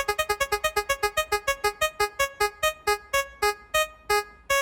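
Spinning-wheel sound effect: a rapid run of identical short, pitched, bell-like ticks that slow steadily as the wheel spins down, stopping near the end.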